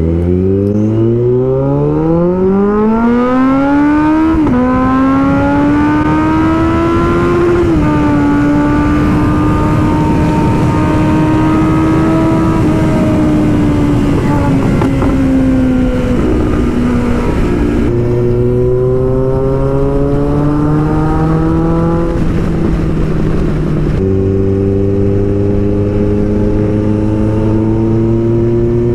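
Kawasaki Z900 inline-four engine under hard acceleration, its pitch climbing steeply and dropping at each upshift, then holding a steady cruise before easing off and pulling up through the gears again. Wind rushes over the microphone throughout.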